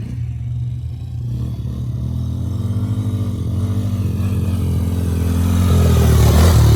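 Small off-road engine of a youth dirt bike or quad running on the track, its pitch rising and falling with the throttle. It grows louder over the last couple of seconds as the machine comes close.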